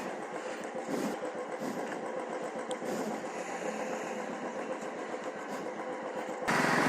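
Royal Enfield Classic 350 single-cylinder engine idling with a steady, fast low pulse. Near the end the sound jumps suddenly louder.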